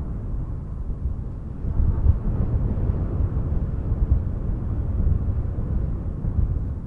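Wind blowing in gusts, a low rumbling rush that swells about two seconds in and eases off near the end.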